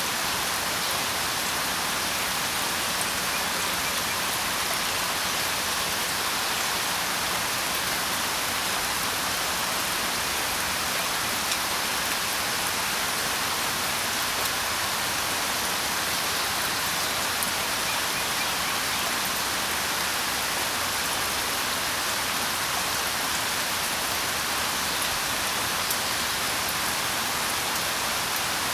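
Steady rain falling, an even hiss of drops with an occasional faint tick of a single drop.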